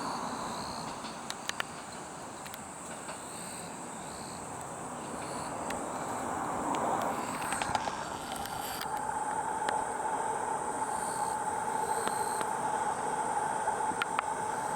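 DEC700 diesel-electric inspection train running along the line, its noise fading away after passing. A steady high-pitched tone comes in about nine seconds in.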